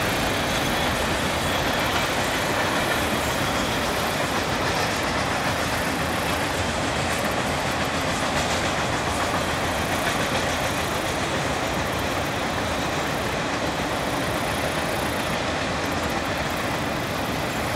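Freight train cars rolling past at speed, a steady rush of wheel-on-rail noise.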